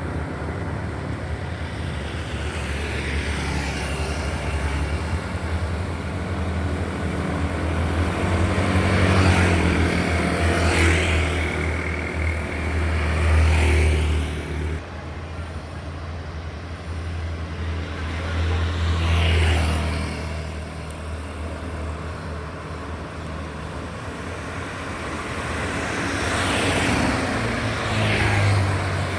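Road traffic: trucks and other vehicles passing one after another, a steady low engine rumble under the rise and fall of about five pass-bys, loudest about a third to halfway through.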